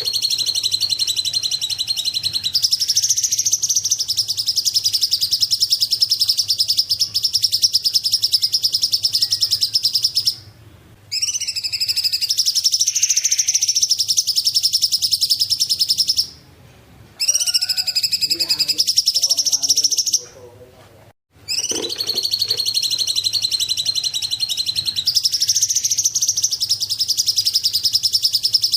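Cungkok bird singing long, high, rapid trills, each held for several seconds, with three brief breaks about ten, sixteen and twenty seconds in.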